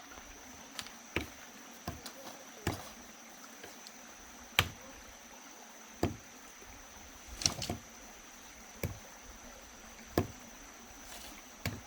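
Irregular knocks on wood, about a dozen sharp taps and blows spaced a second or so apart, with a quick cluster around the middle. A steady high-pitched tone runs underneath.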